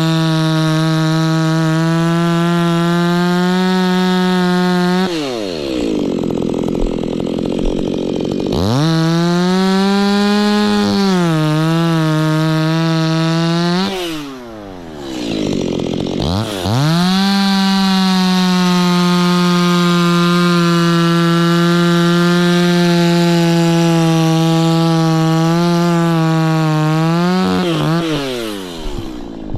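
Two-stroke chainsaw cutting wood at full throttle. Twice the throttle is let off, so the pitch falls to a low idle for a few seconds, then the saw revs straight back up. Near the end it drops off once more.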